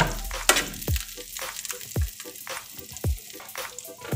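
Sliced garlic sizzling in foaming melted butter in a pan, with a utensil stirring and scraping against the pan. Background music with a low thump about once a second runs underneath.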